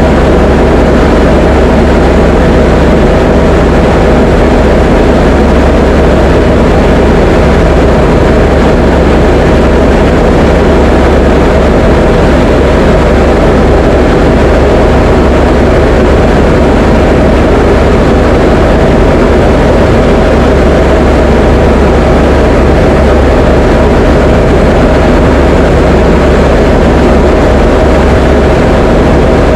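Diamond DA20 light aircraft's piston engine and propeller droning steadily, heard from inside the cockpit, with no change in pitch or level.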